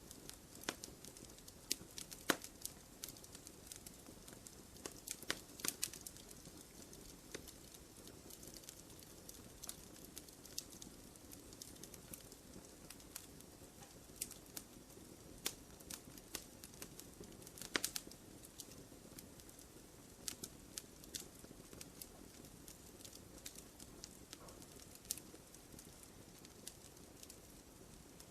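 Wood fire crackling in a fireplace: irregular sharp pops and snaps over a soft steady hiss, with a louder pop about two seconds in and another near eighteen seconds.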